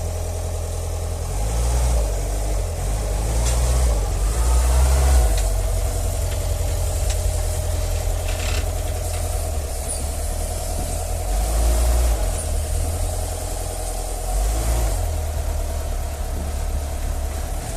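An engine running steadily at idle, with a constant mid-pitched hum and a deep rumble that swells and fades several times.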